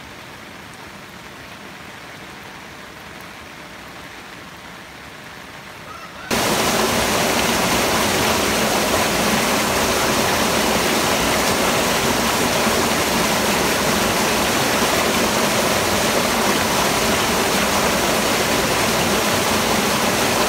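Steady rain for about six seconds, then an abrupt jump to loud, even rushing water that continues unbroken.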